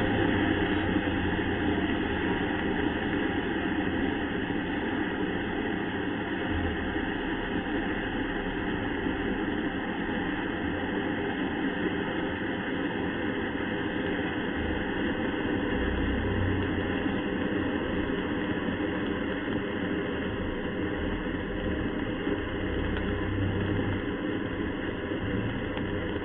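Homemade sugar-propellant (rocket candy) rocket motor burning on a static test, heard as a long, steady rushing noise with a low rumble that eases slightly toward the end, deepened and stretched out by slow-motion playback.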